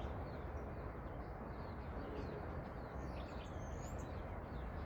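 Small birds chirping and calling over steady background noise, including one longer whistled call about three and a half seconds in.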